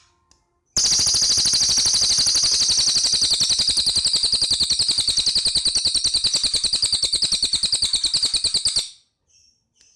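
Cililin bird giving one long, very rapid trill, high-pitched. It starts suddenly about a second in and runs about eight seconds before fading out near the end.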